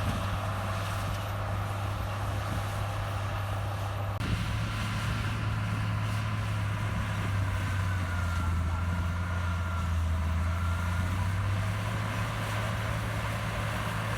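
Heavy diesel engine of earthmoving machinery running with a steady low drone, with a single short knock about four seconds in.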